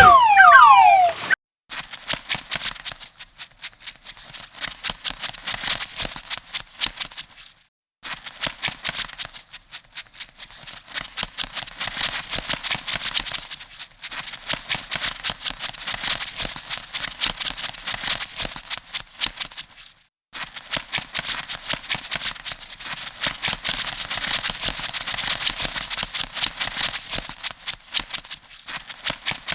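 Crab sound effect: rapid dry clicking and rattling in long runs, broken by brief pauses about 8, 14 and 20 seconds in. It opens with a few quick falling chirps that stop about a second in.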